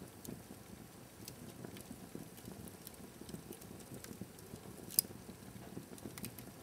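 Fire burning in a fireplace: a low steady rustle of flames with scattered crackles and one loud sharp pop about five seconds in.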